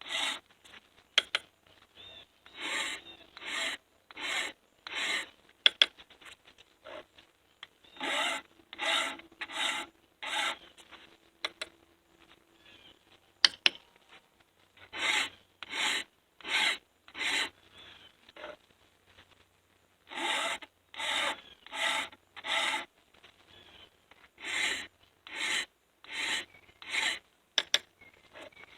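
Hand file rasping across the depth gauges (drags) of a chainsaw milling chain, in sets of about four strokes, with sharp taps in the pauses between sets as he moves from one drag to the next.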